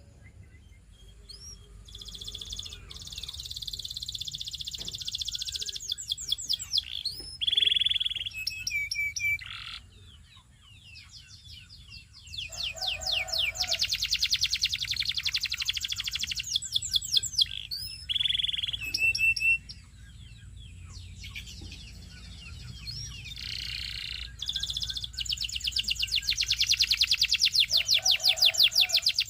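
Domestic canary singing: long, fast rolling trills in phrases of a few seconds, separated by brief pauses and a few short chirped notes.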